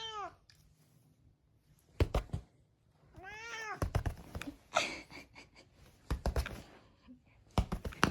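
A 16-year-old cat meowing: one call trails off at the very start, and a full rising-and-falling meow comes about three seconds in. Sharp knocks and thumps fall in between.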